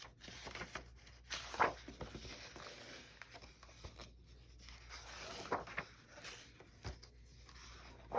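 Paper rustling as the pages of a paper doll book are turned and handled, in short swishes, the loudest about one and a half seconds in and again around five and a half seconds.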